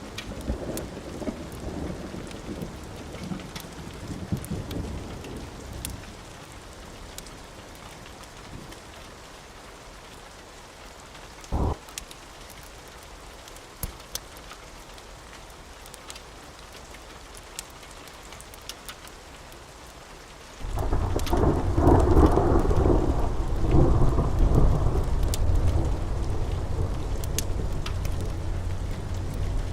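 Steady rain with thunder: a rumble fading out over the first few seconds, then a sudden loud thunderclap about two-thirds of the way in that keeps rolling. A single sharp crack near the middle and faint scattered pops of a crackling wood fire sound over the rain.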